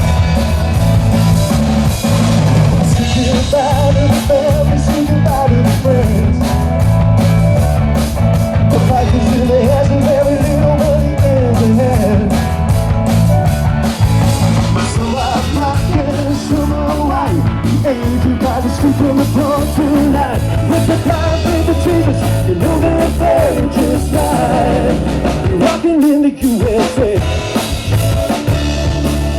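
Loud rock music: drum kit and bass with a wandering sung or lead melody over them. The low end drops out briefly near the end.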